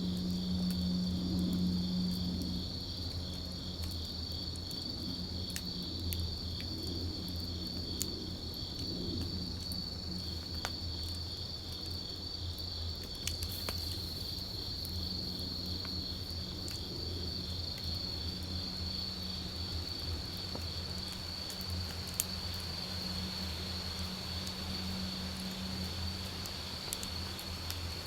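Wood campfire burning, with a few sharp crackles and pops now and then, over a steady high chirring of insects and a low hum.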